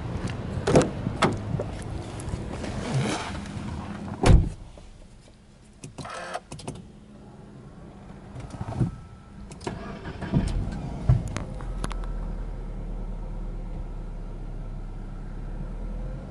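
A car door shuts with a thump about four seconds in, then the Subaru Legacy 2.5GT's turbocharged 2.5-litre flat-four is started about eleven seconds in and settles into a steady idle at about 1,000 rpm.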